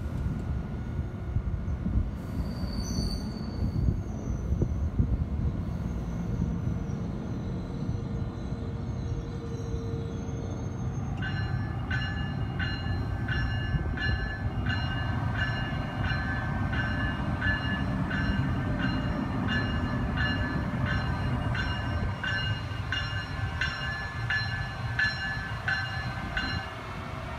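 New Jersey Transit multilevel coaches and a Bombardier ALP-46A electric locomotive rolling past with a steady rumble of wheels on rail, and a brief high squeal a few seconds in. From about midway a locomotive bell rings steadily, about one and a half strokes a second, stopping just before the end.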